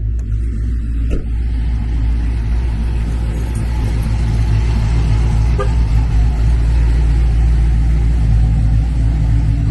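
Car engine idling with a steady, deep exhaust drone, getting a little louder about halfway through.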